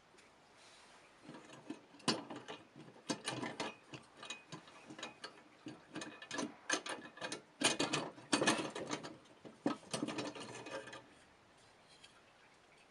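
Irregular clicking, scraping and rattling of small metal parts worked by hand, as an old vintage scale is taken apart. It starts about a second in and stops near the end.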